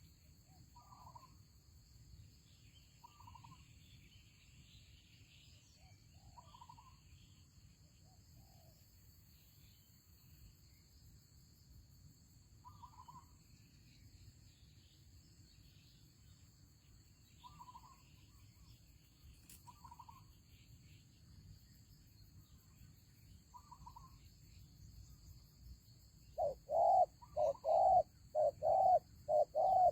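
Spotted doves cooing: faint, distant coos every few seconds, then near the end a loud close dove starts a quick run of about eight cooing notes.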